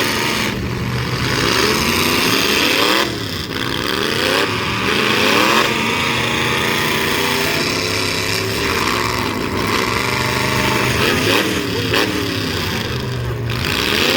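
Several demolition-derby truck engines revving hard at once, their pitches climbing and falling over one another.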